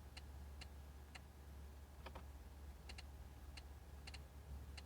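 Faint, sharp clicks from the car's infotainment controls being operated, about a dozen at uneven intervals, some in quick pairs, over a low steady hum.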